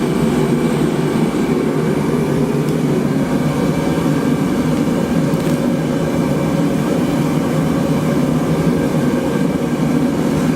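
A forge running close by: a loud, steady, even rumble with a faint hum in it and no hammer strikes.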